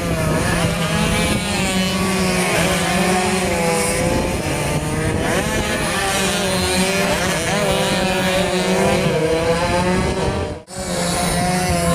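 Two-stroke underbone racing motorcycles running hard, several engines rising and falling in pitch as they rev through the gears. The sound cuts out briefly near the end and then comes back.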